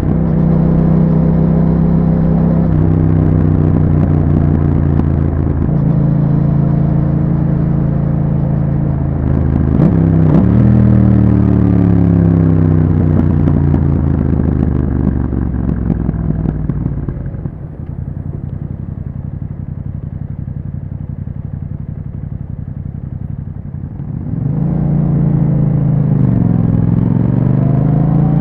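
A 2021 Yamaha MT-07's parallel-twin engine through an Akrapovic exhaust with a YAHOM dB killer, heard while riding. It runs at a steady pitch, shifts pitch about a third of the way in, then winds down. It goes quieter off the throttle for several seconds, then comes back loud with the pitch dipping and rising as the bike accelerates near the end.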